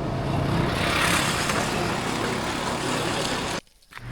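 Motorbike engine running on the road, with rushing wind and road noise over it. The sound cuts off abruptly near the end.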